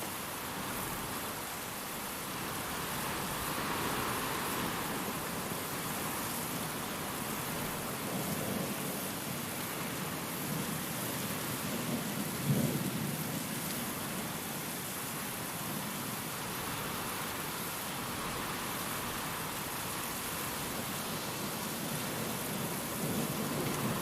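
Steady rain with wind, an even wash of noise that swells and eases; a short low rumble of thunder about halfway through stands out as the loudest moment.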